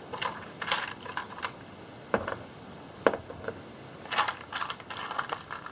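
Small metal hose clamps clinking and rattling as they are handled and picked through, a scatter of light metallic clicks at irregular intervals.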